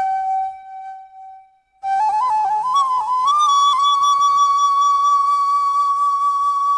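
Solo flute melody. A held note fades out, and after a short pause the flute comes back with quick ornamented notes that rise into a long held, higher note.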